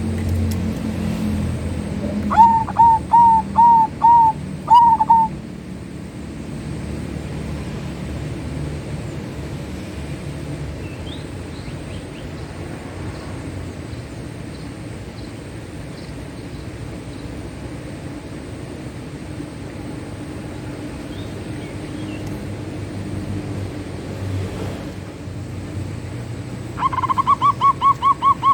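Zebra dove (perkutut) cooing: a run of about six short, clear notes about two seconds in, then a quicker run of about ten notes near the end, over a steady low background rumble.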